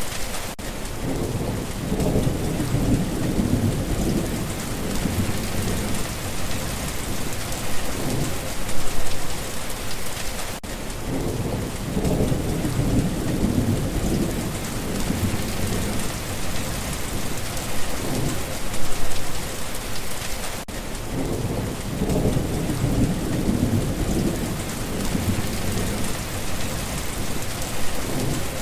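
Steady rain falling, with low rolling thunder that swells and fades three times, about ten seconds apart.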